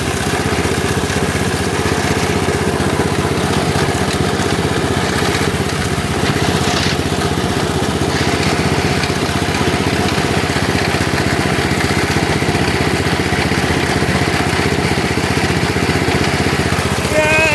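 Lawn tractor engine running steadily, with an even, unchanging beat.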